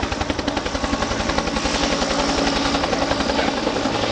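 Bell UH-1 Huey helicopter running, its rotor blades beating in a steady, rapid rhythm over the engine noise.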